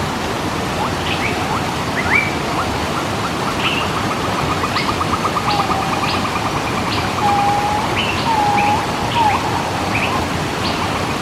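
Waterfall rushing steadily, with several birds calling over it: scattered high chirps, a fast trill lasting a few seconds through the middle, and a few short low whistles in the second half.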